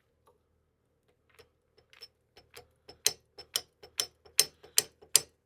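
Motorcycle front brake lever being pumped repeatedly, a run of sharp clicks at about two to three a second that start faint and grow louder about halfway through. This is the lever being worked after a brake pad change to push the caliper pistons back out until the lever firms up.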